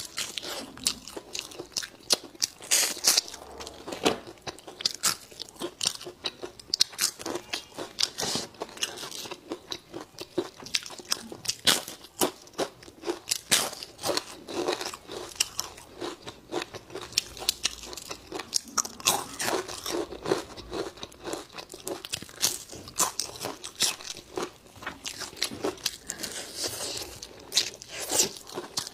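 Close-miked crunchy chewing and biting of crispy fried food, with sharp, irregular crackles, several a second, the whole time.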